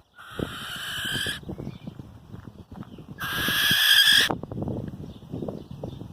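Barn owl screeching twice: two harsh screeches about a second long each, the second louder.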